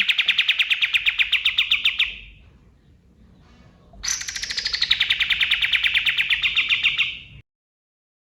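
Kapas tembak bird singing two fast rattling trills, each about three seconds long, about ten notes a second, starting high and settling slightly lower. The second trill cuts off abruptly.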